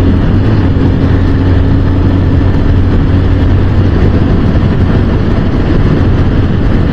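Honda XR150L's single-cylinder four-stroke engine running steadily and working hard near wide-open throttle, with a steady rush of wind and road noise over it.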